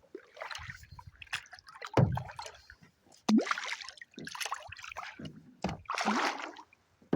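Kayak paddle strokes in lake water: irregular splashes, sloshing and dripping, some with a low thump.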